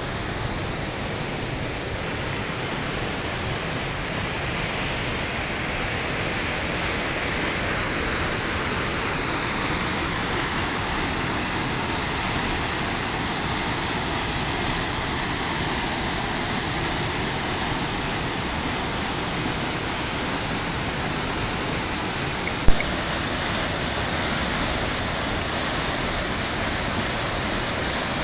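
Waterfall rushing, a dense steady roar of falling water. A single sharp click cuts through it about three quarters of the way through.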